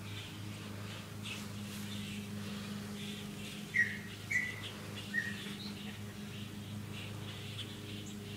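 Three short, high, slightly falling chirps about half a second apart from a small bird, over a steady low hum.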